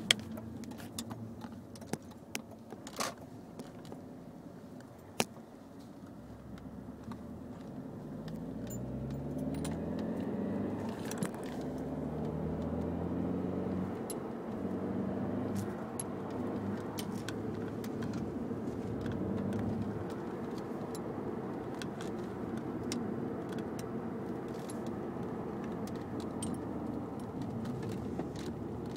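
Audi A4 2.0T's turbocharged four-cylinder engine running, with a few sharp clicks in the first seconds. From about eight seconds in it is revved up several times, its pitch rising with each rev.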